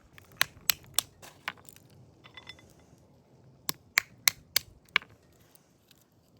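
Sharp knocks in two quick runs of about five strokes each, roughly three a second, with a pause of about two seconds between them.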